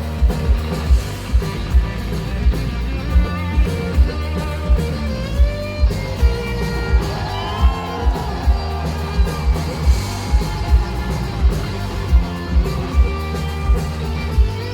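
Live rock band playing an instrumental passage with no vocals: sustained guitar lines over a steady kick-drum beat of about two to three hits a second, with a gliding lead line in the middle.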